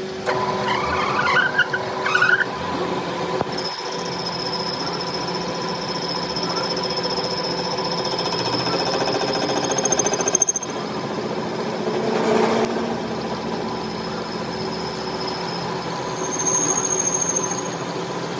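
Workshop machinery working metal with a steady high-pitched squeal, which sets in a few seconds in and fades near the end, over a running machine hum.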